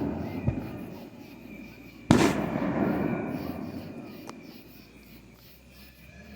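Fireworks going off: the fading tail of one bang, then a single sharp bang about two seconds in, whose echoing tail dies away over the next few seconds.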